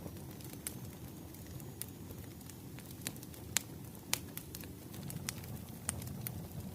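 Wood fire crackling: irregular sharp pops and snaps over a low, steady rumble, with two louder pops a little past the middle.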